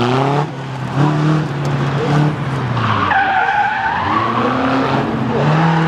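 Super Seven's engine revving up and dropping back repeatedly, with short throttle blips, as the car is driven hard through a gymkhana course. About halfway through, its tyres squeal for a second and a half in a turn.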